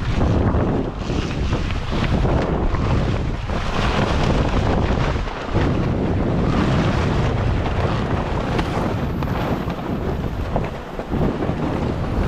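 Wind buffeting the microphone of a camera on a sailing catamaran under way, over the rush of water along the hulls. The noise is loud and uneven, swelling and easing every second or so.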